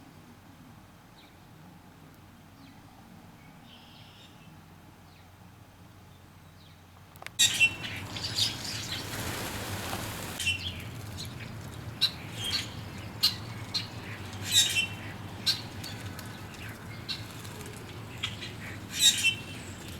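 Birds at a bird bath: faint at first, then about seven seconds in a sudden flurry of wingbeats as birds arrive, followed by repeated sharp chirps and squawking calls.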